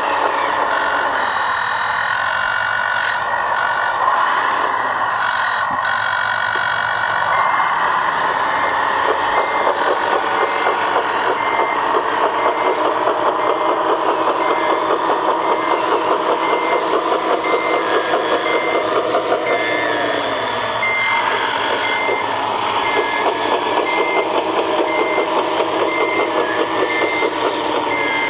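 Whine of a 1/14-scale RC construction machine's electric motors working, with slow dips in pitch. About a quarter of the way in, a reversing beeper from a model's sound module starts and beeps evenly, a little more than once a second.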